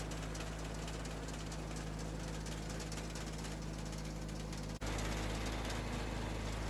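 John Deere 317 garden tractor engine running steadily. It briefly breaks and comes back slightly louder nearly five seconds in.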